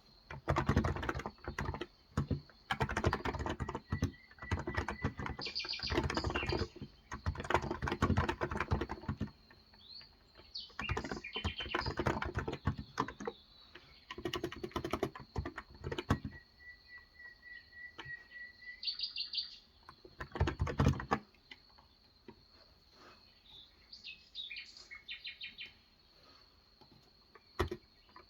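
Typing in quick bursts on a Cox Endeavor tenkeyless electrostatic capacitive (Topre-style) keyboard with light 35 g switches. The keystrokes thin out to a few scattered taps after about 21 seconds. Birds chirp over it, with short calls and a couple of held whistling notes.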